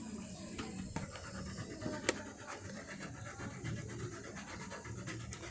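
Faint scraping of a whole nutmeg being grated over a pot, with a sharp click about two seconds in.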